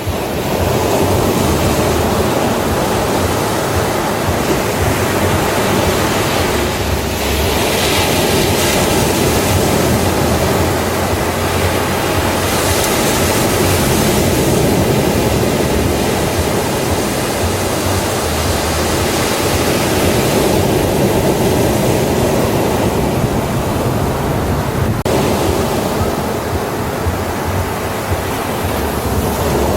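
Ocean surf on a beach: a steady, dense rush of breaking waves that swells and eases over several seconds at a time.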